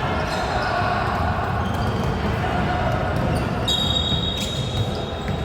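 Basketball game in a gym: a ball bouncing amid players' voices and court noise, with a short high-pitched tone about four seconds in.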